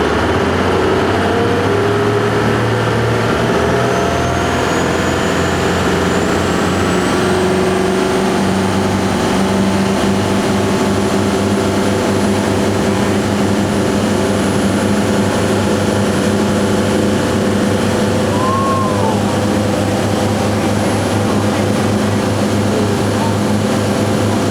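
Boat engine running steadily under way, a constant drone, with a faint high whine that rises in pitch over the first few seconds.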